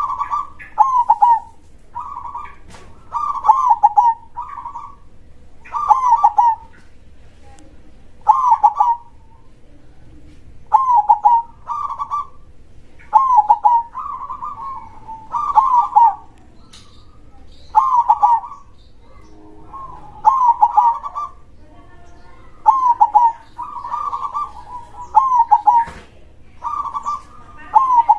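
Zebra dove (perkutut) cooing: short phrases of quick, bending notes repeated about every two seconds.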